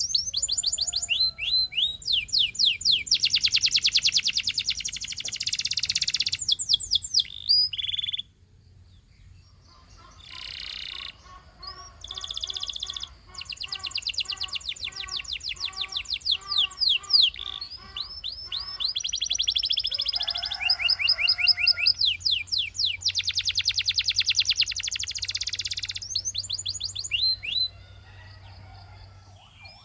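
Canary singing: fast high trills and rolls in long phrases, a short break about eight seconds in, and a slower run of lower repeated notes in the middle.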